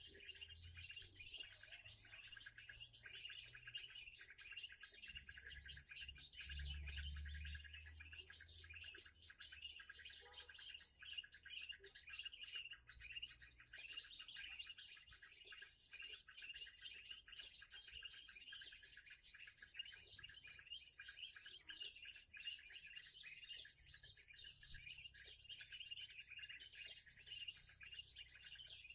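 Faint, dense chorus of small birds chirping and calling without a break, with a low rumble briefly a few seconds in.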